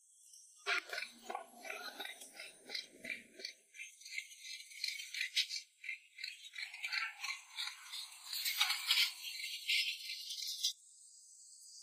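A dry, rapid rattling made of many quick clicks, which stops abruptly near the end.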